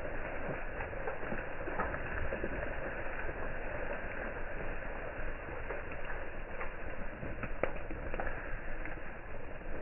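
Wood fire crackling: a steady hiss with scattered sharp cracks at irregular moments.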